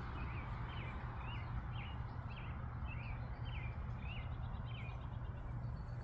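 A small bird calling one short, repeated note about twice a second, some ten times, over a steady low background rumble.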